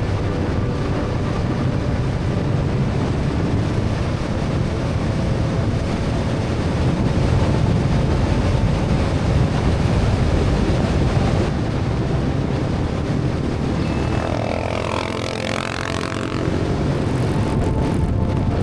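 Motorcycle running at road speed under a heavy rush of wind on the microphone. A brief wavering pitched sound rises over it near the end.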